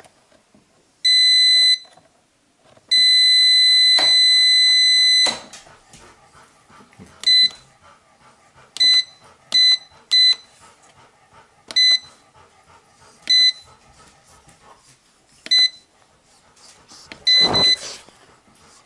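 Stanley FatMax 12-volt jump starter pack beeping as its buttons are pressed: a short beep, a long beep of a couple of seconds, then a string of short single beeps a second or two apart. Button clicks and a handling knock near the end.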